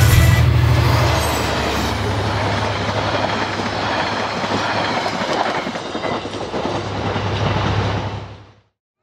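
KiwiRail diesel-electric locomotive passing close with its engine running, then its passenger carriages rolling past on the rails. The engine's low hum is strongest about the first second, giving way to steady wheel-and-rail noise that fades a little and then cuts off abruptly near the end.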